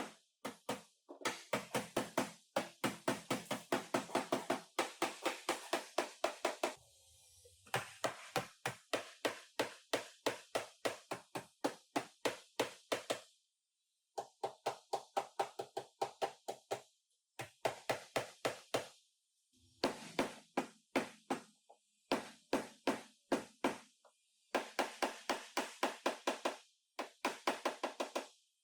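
Hammer striking car body sheet metal in quick, regular blows, about four or five a second, in runs broken by short pauses: panel beating to work the damaged bodywork back into shape.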